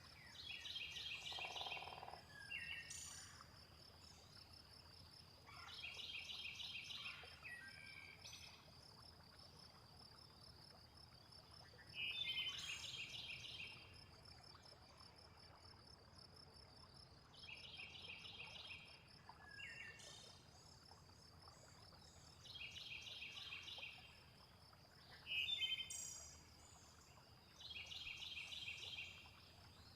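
Faint nature soundscape: a steady high insect trill, like crickets, runs underneath, while pulsed trilling calls of about a second and a half come back every five or six seconds, with short bird chirps in between.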